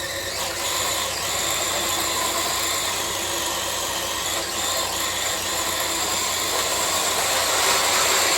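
Traxxas TRX-4 RC crawler's electric motor and geared drivetrain whining steadily under load as it pulls a weighted sled, growing slightly louder near the end.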